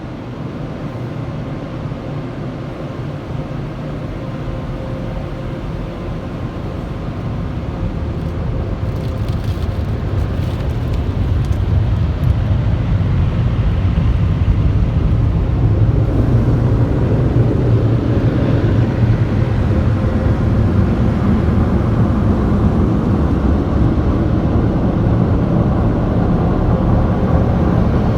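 Automatic touchless car wash machinery heard from inside the car: a steady low rumble that grows louder over the first half and then holds, with a faint steady hum above it.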